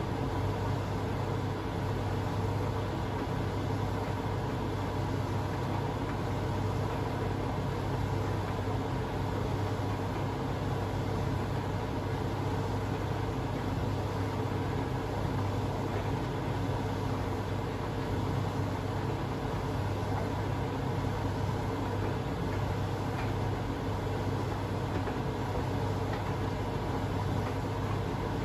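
Privileg Sensation 952 S top-loading washing machine running with a steady, unchanging machine hum.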